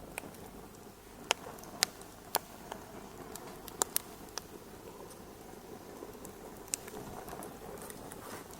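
Wood fire crackling in a fireplace: a steady low rush of burning with sharp, irregular pops, several close together in the first half.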